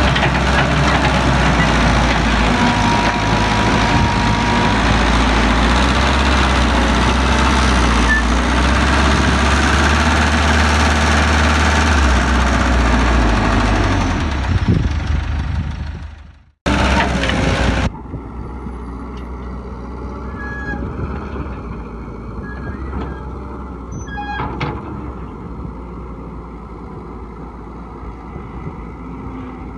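Heavy diesel construction machinery running loudly with a deep engine hum. About halfway through it fades and cuts off. After a brief burst, a quieter engine keeps running with a few faint knocks.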